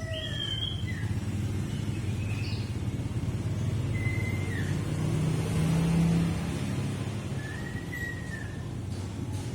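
Common iora (cipoh) giving a few scattered whistled notes, some sliding downward, over a steady low rumble that swells about six seconds in.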